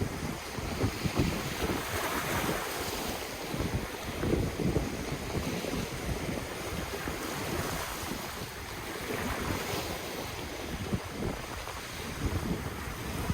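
Ocean waves washing in on the shore, with wind buffeting the microphone in low gusts.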